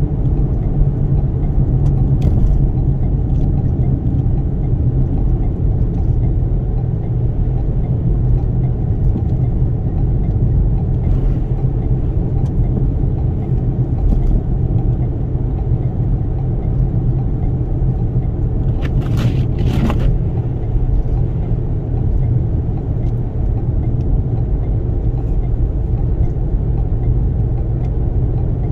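Toyota Sienna minivan driving through a snowstorm: a steady low rumble of road and wind noise, with two brief clicks about two-thirds of the way in.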